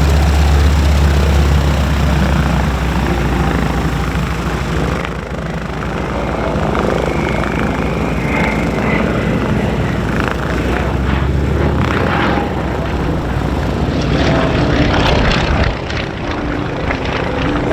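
Grumman F6F-5 Hellcat's Pratt & Whitney R-2800 radial engine droning as the fighter flies past. The drone is loudest at the start, eases off about five seconds in, then swells again before dropping away near the end.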